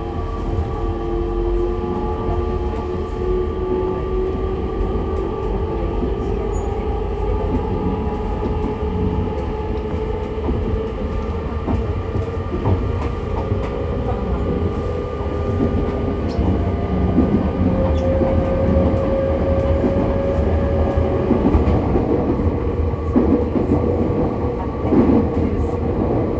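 Running noise inside an E501-series electric train's motor car: steady wheel-and-rail rumble under the whine of the traction motors and inverter, whose tones glide slowly in pitch. A few knocks of rail-joint clatter come near the end.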